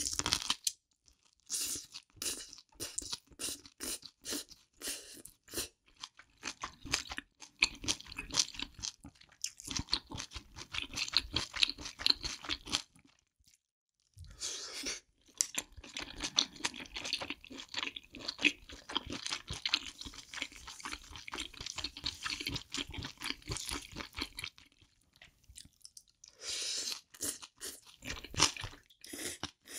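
Close-miked chewing of spicy braised octopus: rapid runs of wet squelches and crunchy clicks, stopping twice for a second or so, around the middle and near the end.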